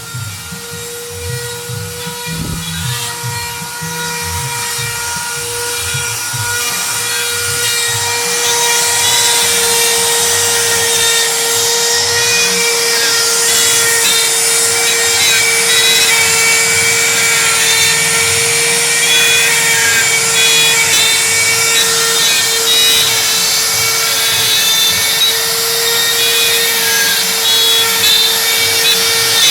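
4-axis CNC router with its spindle running at a steady high whine. From about eight seconds in, the bit starts cutting into the lure blank, adding a louder hissing, rasping cutting noise that continues.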